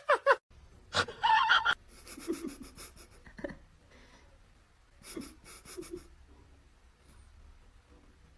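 Rapid, wheezy panting breaths in short runs, with a short loud cry about a second in.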